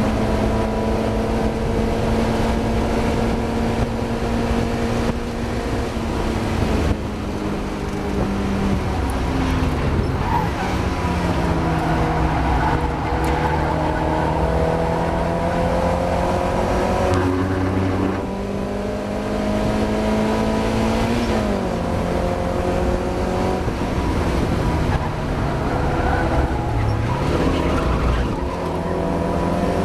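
Mazda MX-5 race car's four-cylinder engine running hard at high revs on track, its pitch climbing steadily and then falling sharply three times, about a third of the way in, two-thirds of the way in and near the end, as the driver brakes and changes gear.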